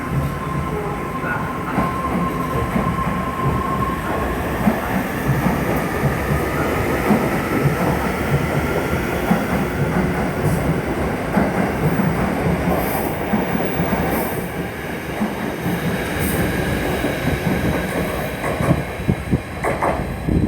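A train running past at a station: a steady rumble of steel wheels on rail with irregular clacking. A thin whine fades out about four seconds in.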